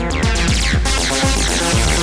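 Electronic music from a sequenced synth bass line processed through the Befaco FX Boy effects module, with a steady kick-like pulse about twice a second and short falling sweeps up high.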